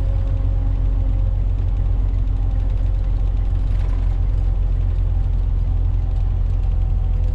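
Semi truck's diesel engine and road noise heard from inside the cab while cruising on the highway, a steady low drone with a faint engine hum.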